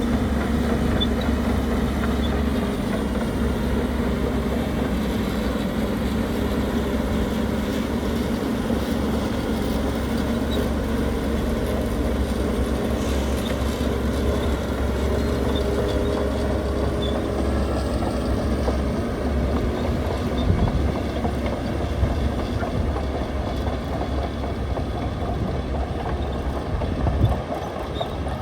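Heavy earthmoving machinery running at work: a steady low diesel rumble with a dense rattle, and two sharper knocks, one about two-thirds of the way through and one near the end.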